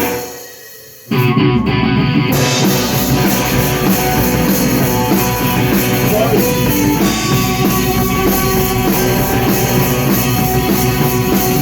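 Rock band playing loud with electric guitars and drum kit; the sound dies down briefly, then the full band comes in together about a second in and plays on steadily.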